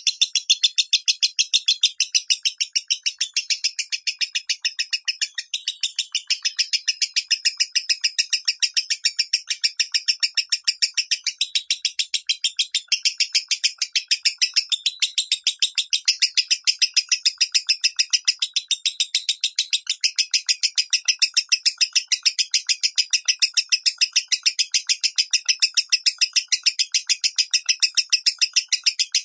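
Lovebird singing the 'minor' song: a long, unbroken run of rapid high chirps, about five a second, at an even pace.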